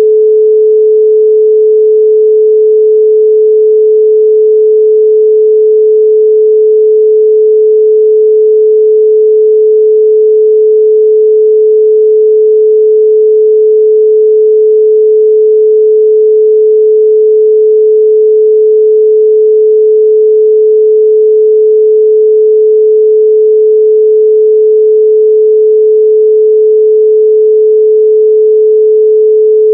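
A 432 Hz pure sine tone, held at one pitch and one level throughout.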